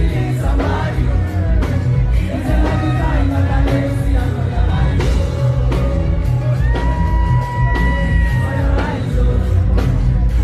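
Live Afrobeats music played loud over a sound system, with a heavy pounding bass beat, a voice singing and shouts from the crowd. About two-thirds of the way through, one long held note stands out.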